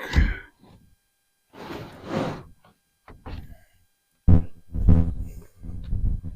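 A man's voice in three short, low, wordless stretches.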